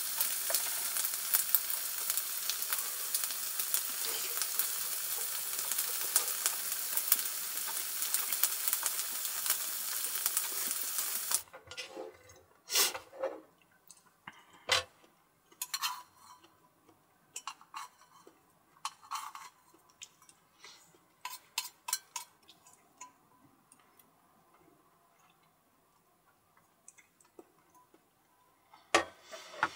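Dumplings sizzling in an electric hot plate's pan, a steady crackling fry that cuts off suddenly about eleven seconds in. After that, scattered light clicks and clinks of chopsticks against a rice bowl and the pan, with a sharp click near the end.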